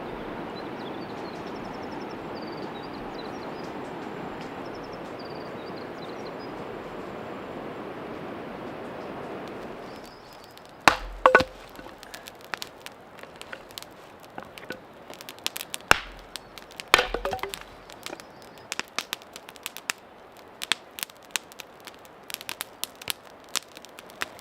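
A steady rushing noise for about ten seconds, then firewood being chopped: four loud sharp strikes in two pairs, followed by a run of small quick crackling clicks.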